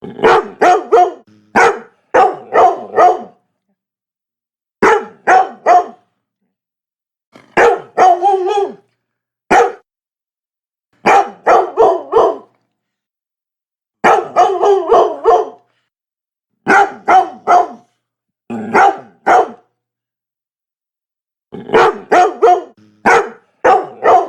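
A Labrador barking in quick runs of two to four barks, with pauses of a second or two between runs.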